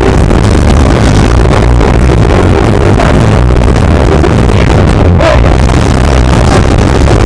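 Punk rock band playing live, with distorted electric guitars, bass and drums in a dense, constant wall of sound. The recording is overloaded and distorted by the sheer loudness.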